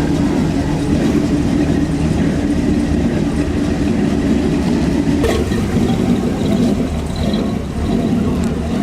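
Car engine idling steadily, with a short click about five seconds in.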